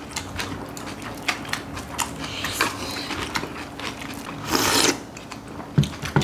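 Close-miked chewing of crunchy raw young radish greens (yeolmu) in bibimbap: a run of quick, crisp crunches, with a short, louder rustling burst about four and a half seconds in.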